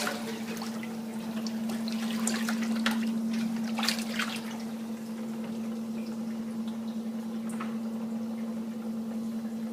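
Basement floodwater splashing, dripping and trickling, with scattered small splashes over a steady low hum.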